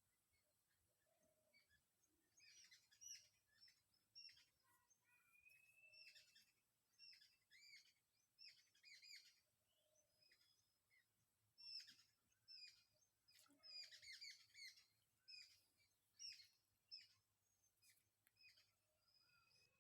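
Faint birdsong: many short chirps and tweets in irregular clusters throughout.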